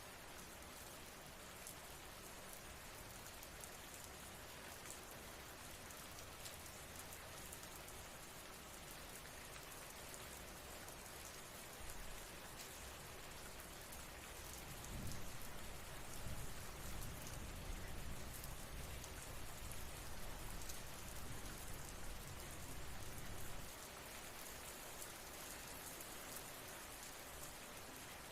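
Steady rain falling, an even hiss. About halfway through, a low rumble comes in for some eight seconds and then drops away.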